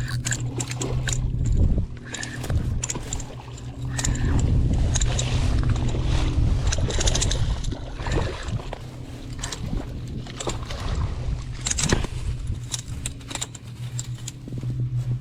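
A hooked redfish being fought at the surface: irregular sharp splashes and clicks throughout, over a steady low hum.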